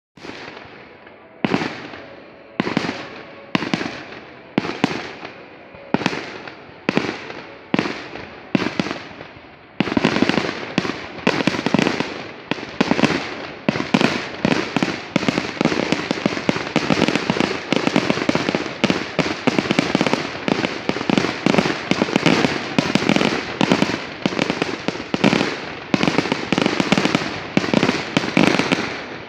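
Fireworks display: separate booming bursts about once a second, each with a long echoing tail. About ten seconds in, it turns into a dense barrage of overlapping bangs and crackle.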